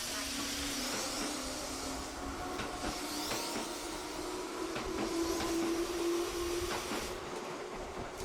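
Tobu 8000-series electric train running: the traction motor's whine rises steadily in pitch as the train picks up speed, fading about seven seconds in, with sharp clicks of the wheels over rail joints.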